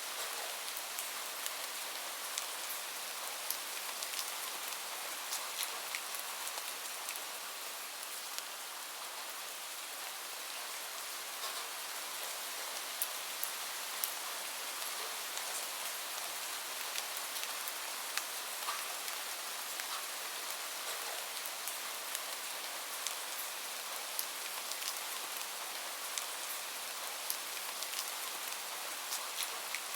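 Steady rain hiss with many short, sharp ticks and pops scattered through it.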